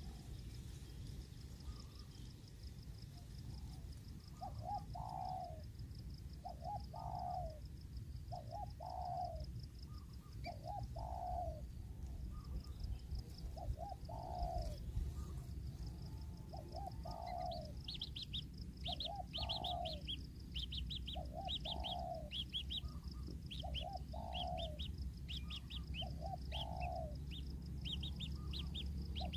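A dove cooing over and over, a short low phrase about every two seconds. From about halfway through, a fast series of high chirps from a small bird joins in. A faint, steady, high pulsing tone runs under both.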